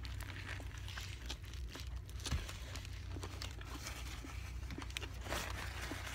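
Close-up eating sounds: chewing a sub sandwich with small soft mouth clicks, then a paper napkin crinkling in the hands a little after five seconds in.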